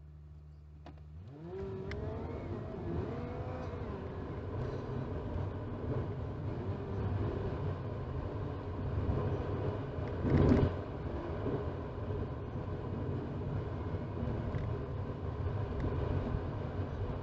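Car driving heard from inside the cabin: a low steady hum at first, then from about a second in the engine and road noise swell as the car pulls away, with rising pitch lines as it speeds up. A single louder thump or jolt comes about ten seconds in.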